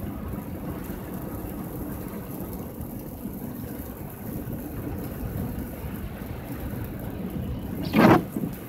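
Car driving on a snowy road, a steady rumble of engine and tyre noise, with one brief louder rush of noise near the end.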